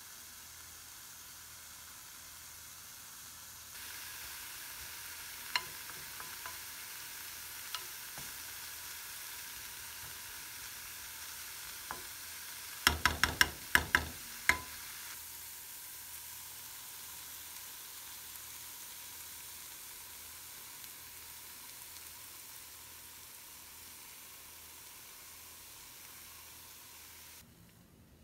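Diced apples sizzling in butter in a frying pan, a steady hiss that grows louder a few seconds in. About halfway through, a wooden spoon stirring the apples knocks against the pan in a quick run of about seven taps.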